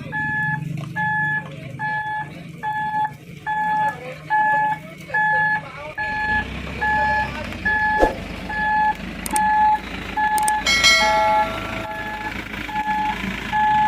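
A Mitsubishi Fuso Canter dump truck's reversing alarm beeps steadily, about one and a half beeps a second. The diesel engine's rumble grows louder about six seconds in, and there is a single knock a couple of seconds later.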